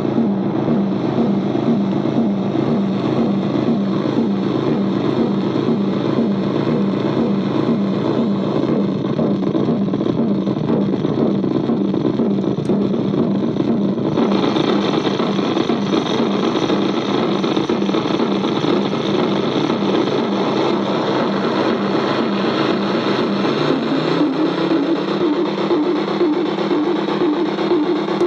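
Glitchy electronic noise from a circuit-bent Korg DDD-1 drum machine patched through a homemade effect unit: a loud, dense, buzzing drone. About halfway through it turns brighter, and near the end its pitch rises.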